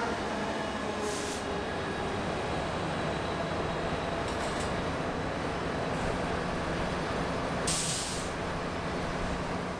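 Passenger trains moving slowly through a station: a steady rumble, broken by short hisses of air brakes about a second in, around four seconds and, loudest, near eight seconds.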